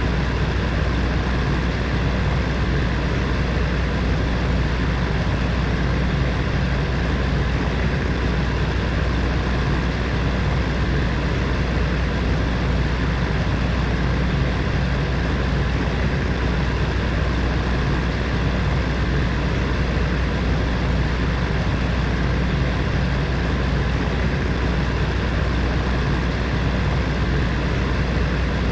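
Space heater's fan running steadily: a constant low hum under an even rush of air.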